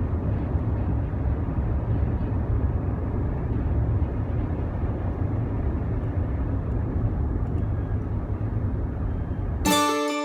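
Steady low rumbling noise with no distinct events; music starts abruptly near the end.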